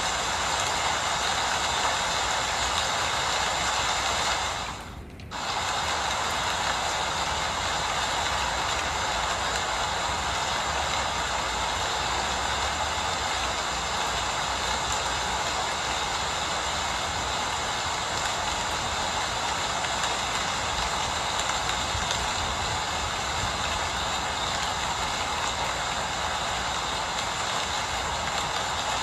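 Steady rain falling, an even hiss with no rhythm. The sound briefly dips about five seconds in, then comes back at the same level.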